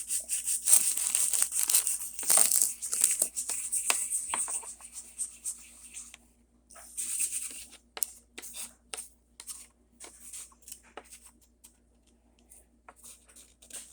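Hands handling an O scale model railroad car and its roof: rustling and rubbing for about six seconds, then scattered light clicks and taps.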